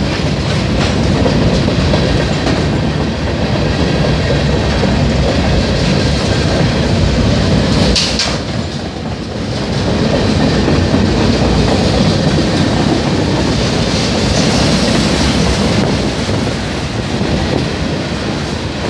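Train cars rolling past close by, their wheels giving a steady clickety-clack over the rail joints.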